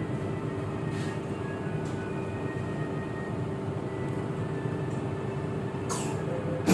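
Steady running noise heard inside a moving MRT Jakarta metro carriage, with a faint steady whine over the rumble. Near the end comes a short falling hiss, then a sudden louder sound.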